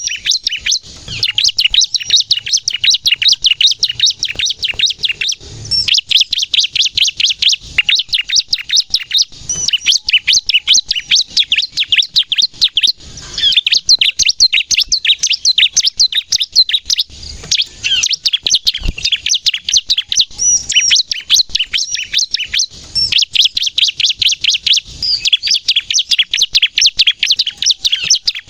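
Bar-winged prinia (ciblek) singing hard in long runs of rapid, high, repeated chirps, many notes a second, broken by short pauses every few seconds: the fast 'nembak' song that bird keepers prize.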